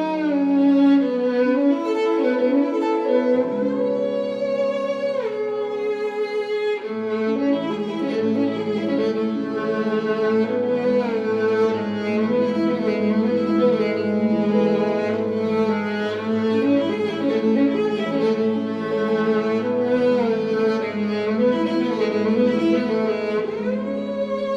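Background music of bowed strings, violin and cello, playing sustained melodic lines over a bass part that comes in about seven seconds in.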